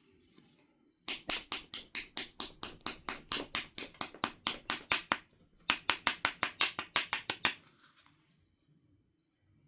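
An abrading stone rubbed quickly back and forth along the edge of a Knife River flint biface, a gritty scrape on each stroke at about seven a second. The strokes come in two runs with a short pause between them. This grinds the edge to prepare platforms for flaking.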